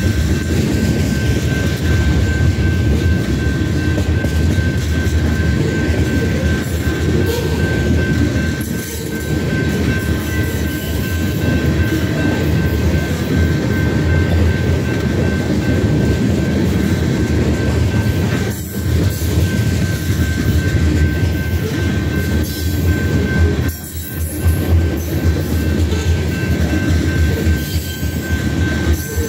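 BNSF grain train of covered hopper cars rolling past: a steady rumble and clatter of steel wheels on rail, with a thin steady high tone above it.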